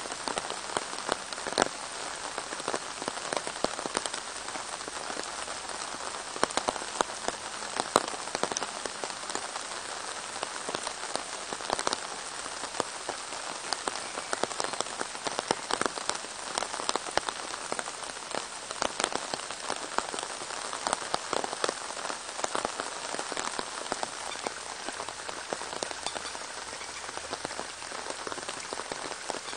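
Steady rain falling on a pond's surface and the plants along its bank, with many sharp individual drop hits close by.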